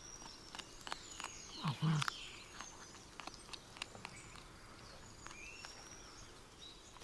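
A small animal scuffling and rustling through dry leaf litter, in scattered crackles, with a louder burst of scuffling about two seconds in. Small birds chirp in the background.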